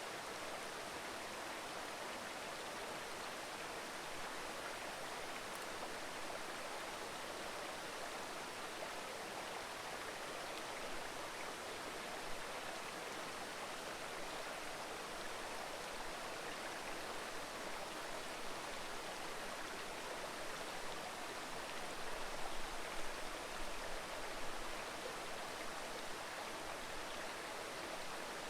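Mountain stream babbling steadily over rocks, with a few louder low surges near the end.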